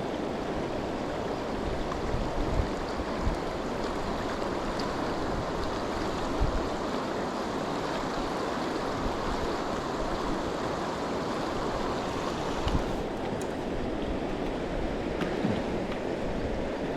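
River water rushing steadily, with a few brief low bumps.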